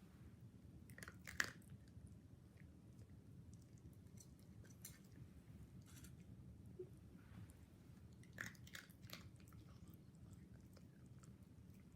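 Mame shiba dog chewing and crunching its breakfast off a person's hand: faint, scattered crunches, one sharper crunch about a second and a half in.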